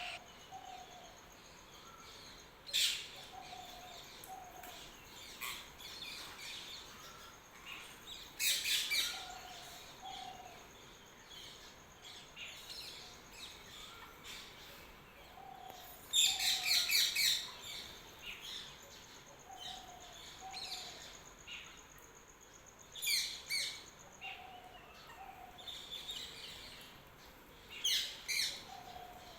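Several birds chirping. Loud bursts of rapid, high chirps come every five to seven seconds over a softer low two-note call that repeats about every second and a half, and a thin, steady high note runs through two long stretches.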